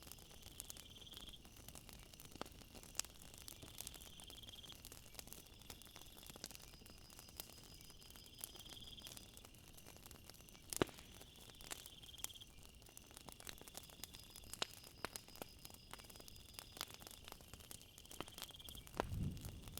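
Night nature ambience: crickets chirping in a steady high trill that swells every few seconds, over scattered sharp pops and crackles of a campfire. There is a brief low rumble near the end.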